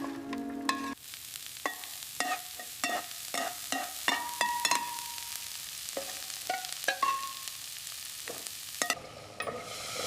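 Food sizzling in a pan while a metal spoon stirs and knocks against it, giving many short ringing clinks. A few held musical tones sound in the first second.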